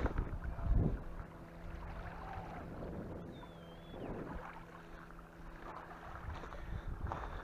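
Wind buffeting the microphone in gusts, over a steady low hum. A short, high, wavering whistle sounds about three seconds in.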